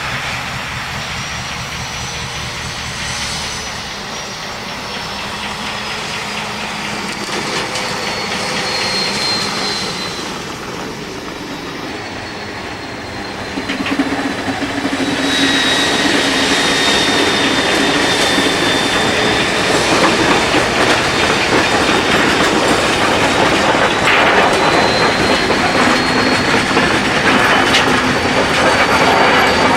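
Railway freight wagons rolling slowly over the track during shunting, wheels clattering, with a thin, high flange squeal that slides slowly up and down in pitch. The sound gets louder about halfway through.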